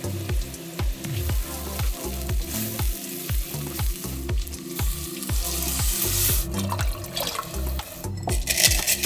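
Diced bacon and onion sizzling in a hot saucepan, with water poured in and hissing about a third of the way through, over background music with a steady beat.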